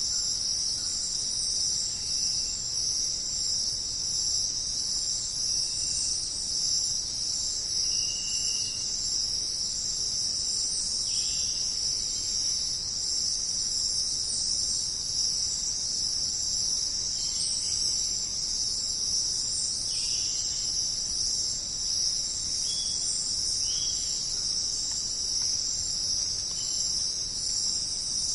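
Dense, steady chorus of crickets, with a few short, faint bird chirps scattered through it.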